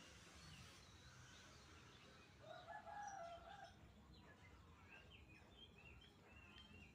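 A rooster crowing once, faintly, a little under halfway through, with small birds chirping in the second half.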